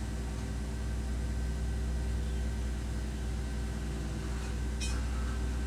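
Race car engine running steadily, a low even drone with no revving. A brief hiss comes near the end.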